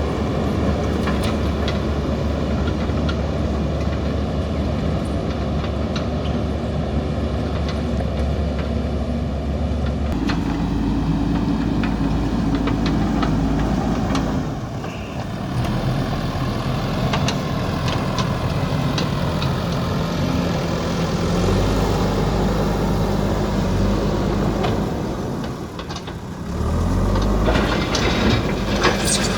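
Diesel engine of a JCB backhoe loader running under work. Its engine note steps to a different speed about a third of the way in, again later, and rises near the end.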